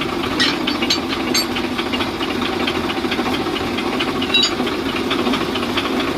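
Electric arc welding crackling and hissing steadily on the steel of a tractor hook, over a steady low hum.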